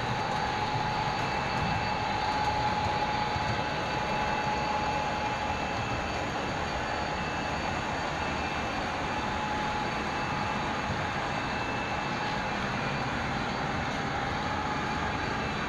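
Model trains running on a layout's track: a steady rolling rumble of wheels on rail with a faint thin whine that comes and goes.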